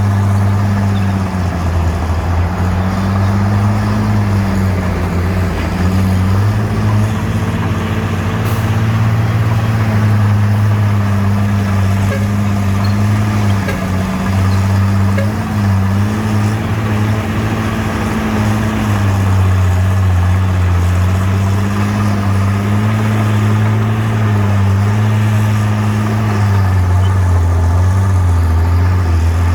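Bulldozer's heavy diesel engine running continuously under load, its low drone dipping and rising a little in pitch every few seconds.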